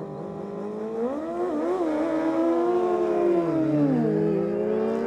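Superbike engine revving hard: its pitch climbs and wavers, holds high, drops about three and a half seconds in, then climbs again.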